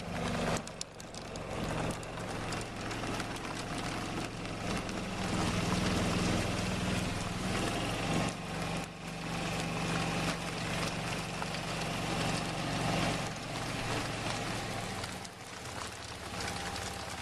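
Golf cart driving, its motor giving a steady low hum under a hiss of rain. The hum drops and eases off near the end.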